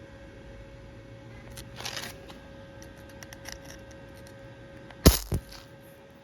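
Two sharp knocks about a quarter second apart, just after five seconds in, over a faint steady hum. A brief rustle and a few small ticks come earlier.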